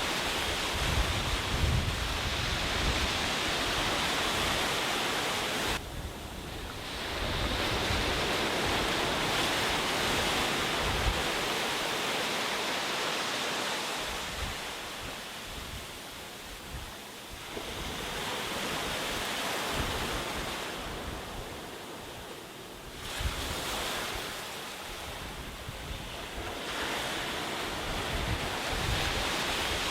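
Sea waves breaking on a beach, the surf swelling and falling back every several seconds, with wind buffeting the microphone.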